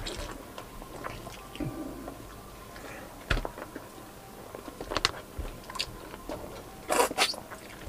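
Mouth sounds of people eating grilled tilapia by hand: soft chewing and lip smacks, broken by scattered sharp clicks. A short cluster of clicks comes about seven seconds in.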